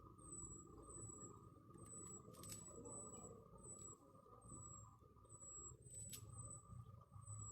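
A small bird calling faintly with short, very high, thin notes that fall slightly in pitch, repeated about once or twice a second, with a couple of faint clicks.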